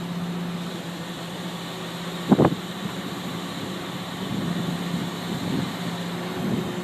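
Crane engine running with a steady hum, with one short knock a little over two seconds in.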